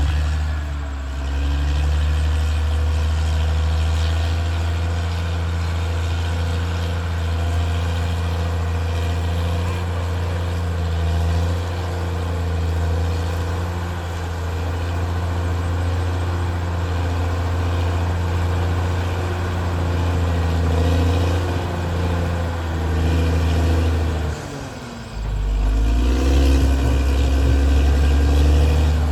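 Caterpillar D6R XL bulldozer's diesel engine running steadily at working revs. Near the end the engine note drops for a moment, then revs back up.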